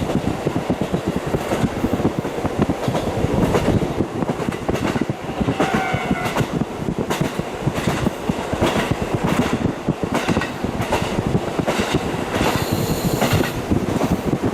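KiHa 40 diesel railcar running, heard through a fully open window: a steady rumble and rush with wheels clicking over the rail joints. A brief squealing tone comes about six seconds in.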